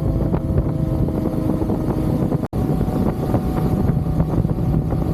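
Motorcycle engine running steadily under way, with some wind on the microphone. The sound drops out for an instant about halfway through and then carries on.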